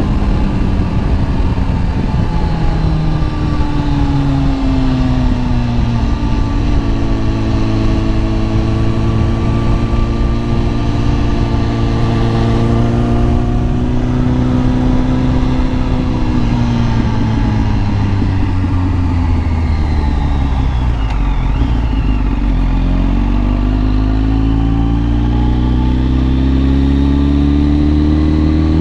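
Kawasaki ZX-10R inline-four engine under way with wind rushing past. The engine pitch drops early on, holds fairly steady, falls again as the bike slows about two-thirds of the way in, then climbs steadily as it accelerates to the end.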